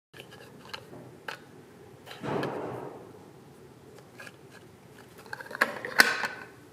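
Small plastic toy kitchen pieces handled: scattered light clicks and taps, a brief scraping rustle about two seconds in, and a louder clatter of clicks near the end.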